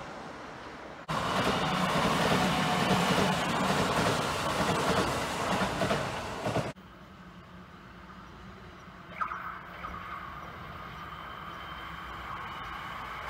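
Kintetsu electric train running past, a loud, dense rumble that starts suddenly about a second in and cuts off abruptly about seven seconds in, leaving a much quieter steady background.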